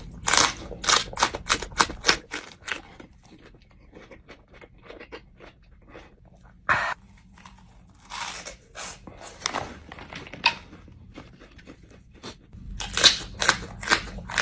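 A person chewing jalapeño peppers close to the microphone, a run of crunchy mouth clicks that comes in flurries and then thins out, with a sharper single crunch near the middle.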